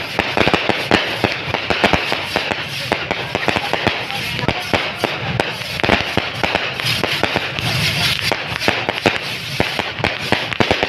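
Fireworks and firecrackers going off: a dense, unbroken run of sharp cracks and bangs, several a second.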